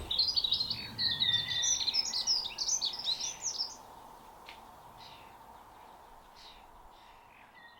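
A songbird singing a fast, varied run of high notes for about three and a half seconds, followed by fainter, scattered bird calls over a steady outdoor background hiss.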